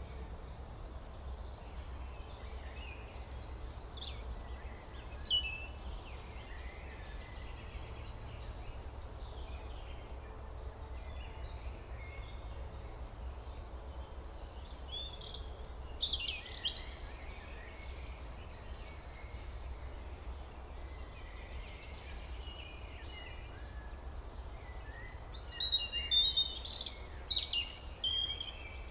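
Birds chirping in three short bursts of high calls, about four seconds in, around the middle and near the end, over a steady low hum.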